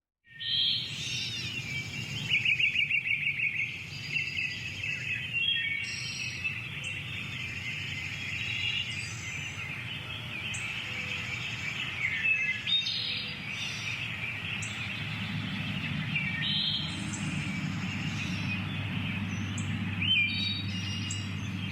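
Country morning ambience of many birds singing and chirping, with a rapid trill about two seconds in. A low steady background rumble grows stronger past the middle.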